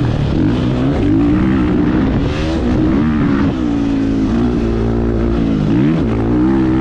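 2022 Husqvarna FE 501's single-cylinder four-stroke engine being ridden, its pitch rising and falling repeatedly with throttle and gear changes, with a sharp drop and pick-up near the end.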